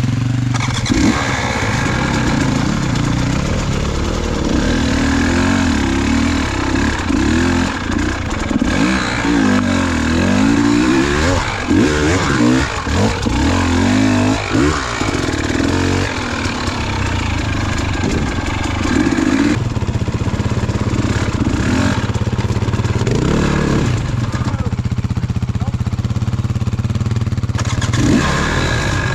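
KTM enduro motorcycle engine being ridden hard, its pitch rising and falling over and over with the throttle for much of the time, then holding steadier with a few more surges near the end.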